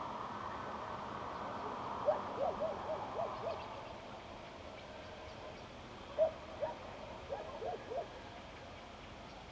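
Owl calling: two quick runs of short hoots, about six in each, roughly two seconds and six seconds in, over a faint steady background hiss.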